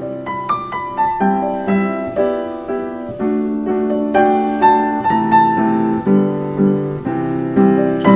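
Background piano music: a slow melody of struck notes, about two a second, over held chords.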